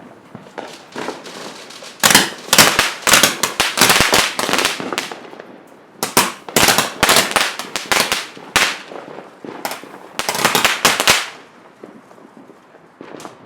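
Consumer fireworks going off in rapid volleys of sharp bangs and crackles: three dense clusters, the first starting about two seconds in and the last ending a couple of seconds before the end.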